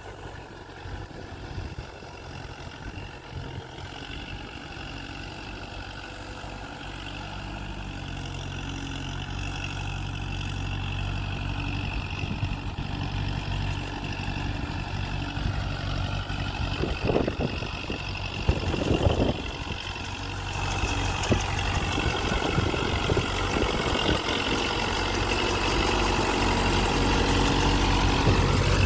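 Kubota MU4501 tractor's diesel engine running steadily and getting gradually louder, with two short, sharp noises about two-thirds of the way through.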